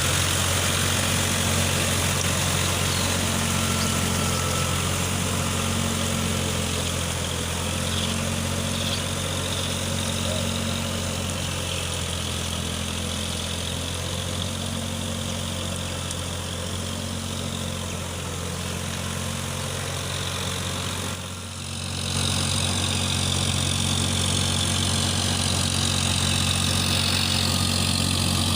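Eicher 557 4WD tractor's diesel engine running steadily, with a brief dip in level about three-quarters of the way through before it picks up again.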